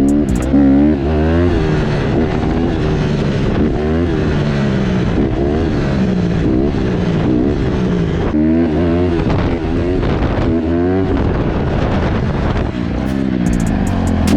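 Honda CRF150R dirt bike's four-stroke single-cylinder engine revving up and down repeatedly, its pitch rising and falling every second or two.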